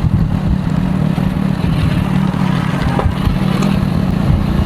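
Motorcycle engine running steadily under way, a constant low drone.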